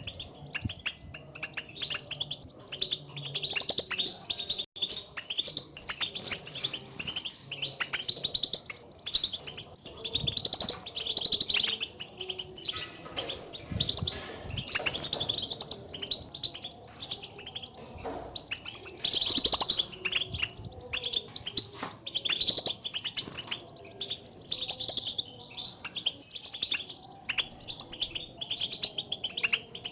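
European goldfinch contact calls: quick, high chirps and twitters repeated without pause. These are the goldfinch's calling notes, distinct from its full song, and are used to stir a caged goldfinch into singing.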